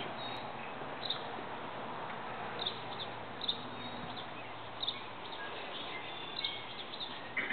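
Small birds chirping in short, high calls every second or so over a steady background hiss.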